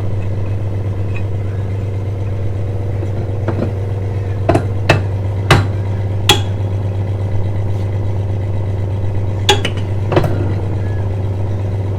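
Steady low drone of a running engine, with a handful of sharp metallic clanks, several close together about four to six seconds in and two more around ten seconds: a crowbar working a stiff turnbuckle on a mast stay.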